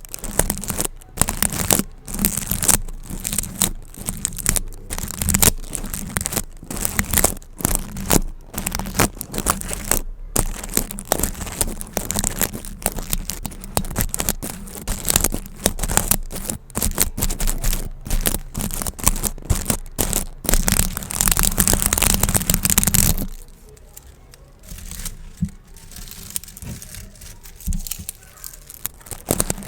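Crinkling and crackling of gift bows being handled, a dense run of sharp crackles. About 23 seconds in it drops to a much quieter stretch with only a few soft crackles.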